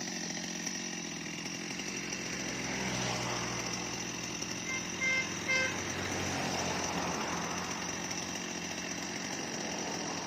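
Stihl MS 230 two-stroke chainsaw running steadily. Two short high beeps sound about five seconds in.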